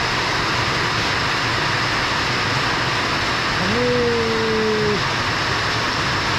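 Heavy rain pouring down steadily in a sudden downpour. A little past halfway, one drawn-out animal call lasting over a second.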